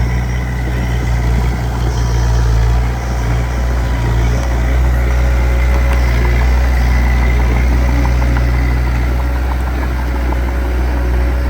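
Diesel engine of heavy earthmoving equipment running steadily at low revs, a deep even hum.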